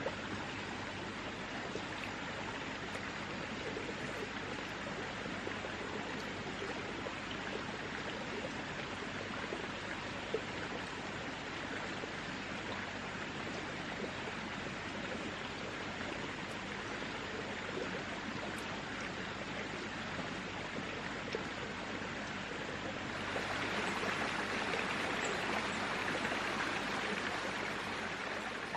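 Steady rushing water, like a flowing stream, with no voices. About 23 s in, a louder, hissier rush comes in.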